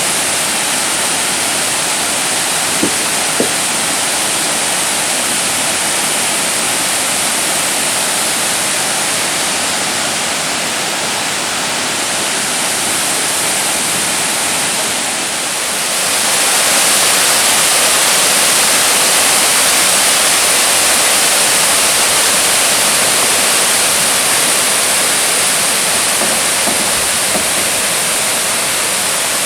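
Waterfall rushing steadily, a dense even roar of falling water that grows louder about halfway through.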